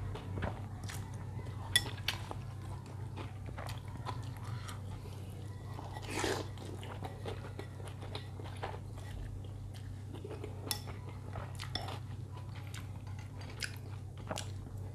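Close-miked chewing and biting of noodles and soft beef meatballs, with scattered light clicks of cutlery against the bowl, over a steady low hum.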